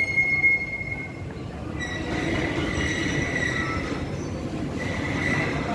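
Long freight train rolling slowly past, its wagon wheels squealing on the rails in a steady high-pitched tone that breaks off about a second in and comes back twice, over a low rumble of wheels on track.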